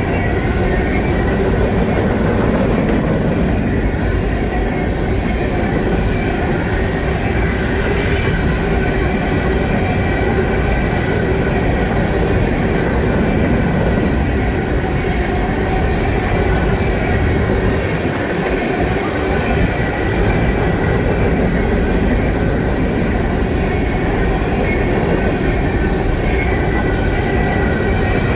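A train rolling past close by: a steady, loud rumble of wheels on rails with faint steady high tones running over it, and a couple of brief sharp clicks about 8 and 18 seconds in.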